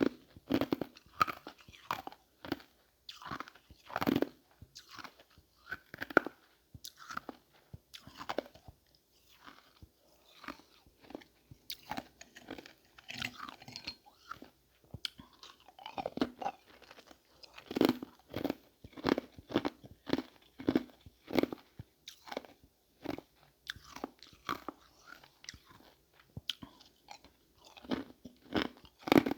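Ice being bitten and chewed close to the microphone: a long, irregular run of crunches, thinning out and going fainter for a few seconds in the middle, then dense again.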